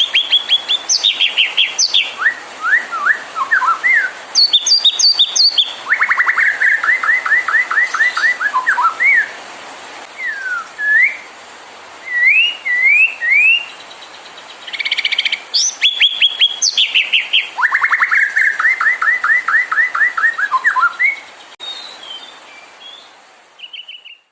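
White-rumped shama (murai batu) singing: quick runs of rapidly repeated notes alternating with clear rising and falling whistles. The song fades out near the end.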